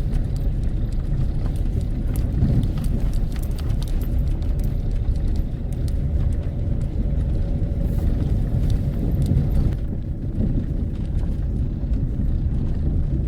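A car driving along a road, heard from inside: a steady engine and road rumble with scattered light rattles and clicks.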